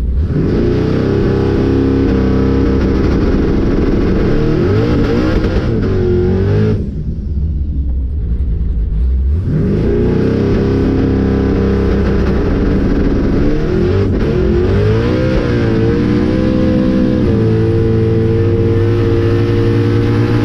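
Boosted drag car's engine making a full-throttle pass with the tyres spinning. The engine note climbs, drops away about six seconds in, then comes back on some three seconds later and climbs again as the driver pedals the car to regain traction.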